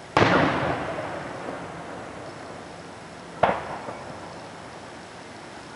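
Two distant aerial firework shells bursting: a loud boom that echoes away over about a second, then a smaller, shorter bang about three seconds later.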